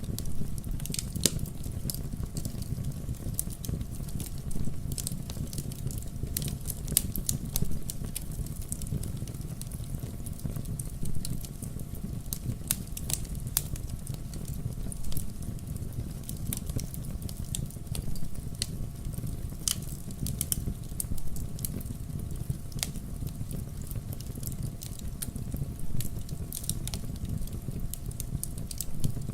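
Wood logs burning in a fireplace: a steady low rumble of the fire with irregular sharp crackles and pops scattered throughout.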